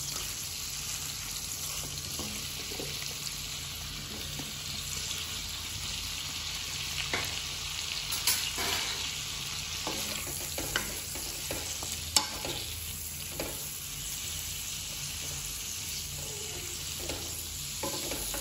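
Chopped green capsicum sizzling in melted butter in a metal kadhai, with a spatula scraping and knocking against the pan as it is stirred. The sharpest knock comes about twelve seconds in.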